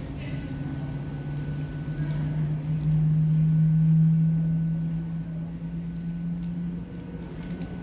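Airliner noise at the gate: a low drone that slowly rises in pitch and swells, loudest about four seconds in, then eases off, under a thin steady high whine.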